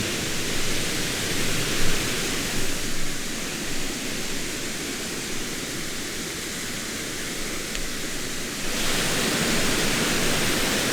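Steady rush of water, a continuous hiss with no distinct events, slightly quieter through the middle and stepping back up about two seconds before the end.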